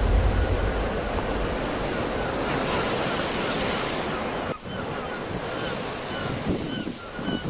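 Sea waves washing on the shore, with wind rumbling on the microphone. The sound drops suddenly for a moment about four and a half seconds in, then carries on.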